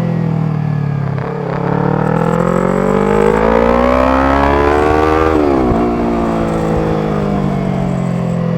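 Yamaha R25's parallel-twin engine through a B-Pro aftermarket exhaust, ridden. The engine note climbs steadily for about four seconds, drops sharply about five seconds in, then winds down slowly as it decelerates.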